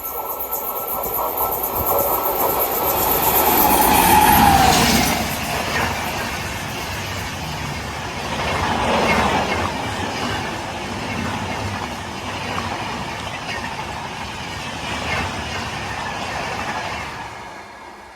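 Express train passing through at high speed. The loudest moment comes about four seconds in, with a tone that drops in pitch as it goes by; after that the coaches rush past with a wheel-on-rail clatter, and the sound fades near the end.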